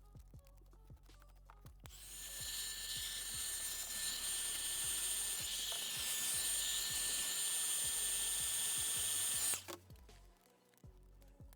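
A small electric tool runs with a steady high hiss and whine. It starts about two seconds in, runs for about eight seconds and cuts off suddenly.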